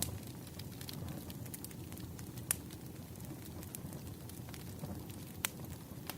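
Campfire crackling: a steady low rumble of burning wood with many small crackles and two sharp pops, about two and a half seconds in and again near the end.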